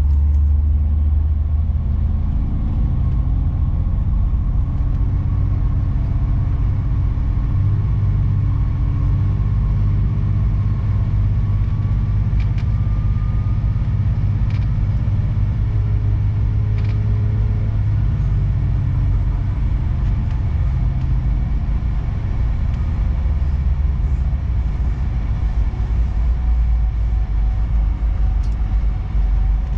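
Regional train running along the line, heard from inside the carriage: a steady low rumble with a humming drive tone that shifts slightly in pitch, a faint rising whine about halfway through and a few light clicks from the wheels and car body.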